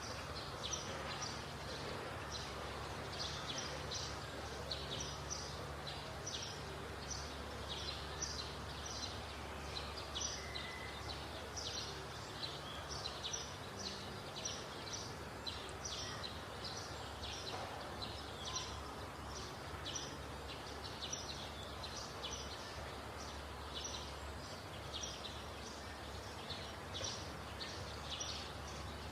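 Small birds chirping over and over, several short high chirps a second, over a faint steady low hum.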